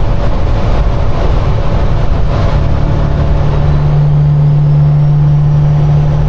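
Diesel semi-truck engine running steadily with road noise, heard from inside the cab; a steady low engine hum grows stronger a little over two seconds in and holds.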